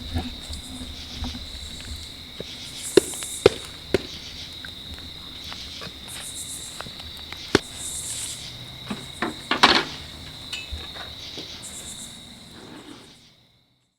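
A steady chorus of night insects, chirring high, with scattered sharp pops and cracks from a wood bonfire burning. All sound cuts off suddenly near the end.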